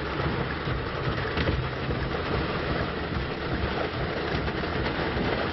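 Heavy rain pounding steadily on a car's roof and windshield, heard from inside the car.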